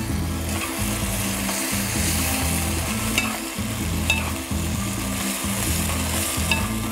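Farfalle pasta sizzling in a frying pan with onions as a metal spoon stirs it, the spoon clicking lightly against the pan a few times. The pasta is being cooked risotto-style in a little added water.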